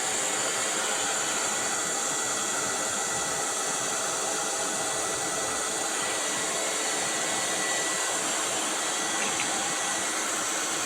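Lefant M210 Pro robot vacuum running: the steady, even whoosh of its suction fan, with a faint thin whine.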